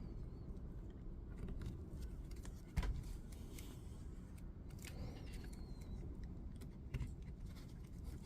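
Small clicks and knocks of tool parts being handled and fitted during reassembly of a DeWalt DCS355 multi-tool, with one sharper knock about three seconds in.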